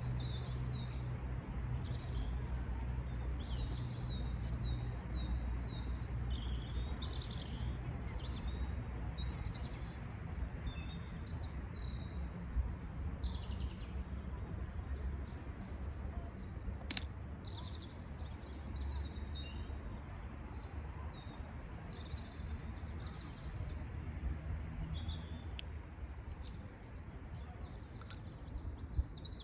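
Wild birds chirping and singing in short, frequent phrases over a steady low outdoor rumble, with two sharp clicks partway through.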